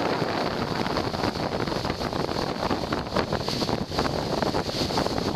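Strong wind buffeting the microphone aboard a sailing yacht, over a steady rush of wind and water.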